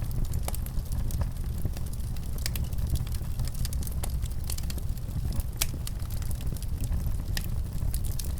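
Wood fire crackling in a fireplace, with frequent small, irregular pops over a steady low rumble.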